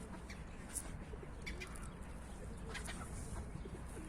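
Pigeons cooing, with short high chirps breaking in now and then over a steady low rumble.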